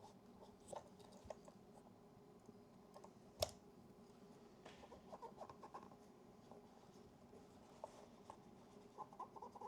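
Quiet handling of a small metal rangefinder camera on a bench: light scratching and rubbing with scattered small clicks, and one sharper click about three and a half seconds in.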